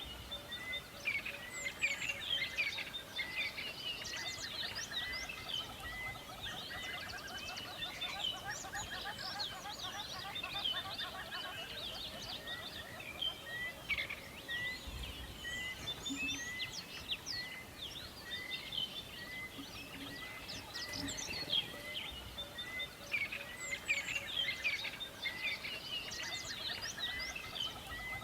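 A chorus of several wild birds singing and calling together, with many quick chirps, trills and short whistled glides. One bird repeats a short note nearly twice a second through much of it.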